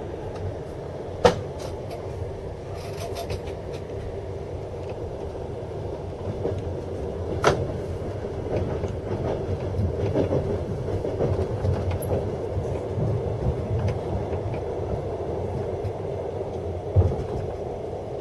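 Train running, heard from inside the carriage: a steady rumble, with three sharp knocks standing out, about a second in, midway and near the end.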